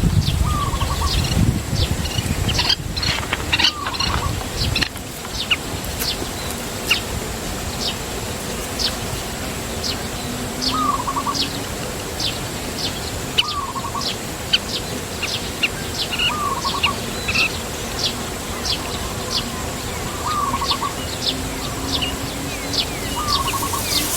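Birds calling: a steady run of short, high, falling chirps about twice a second, and every few seconds a lower, short trilled call. There is rustling and a few knocks in the first few seconds.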